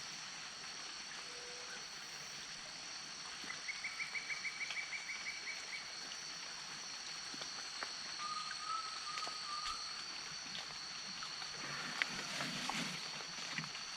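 Wetland nature ambience: a steady high-pitched insect chorus, with a bird giving a fast run of repeated notes about four seconds in and a shorter warbling call around eight seconds. Near the end, a brief rustling splash.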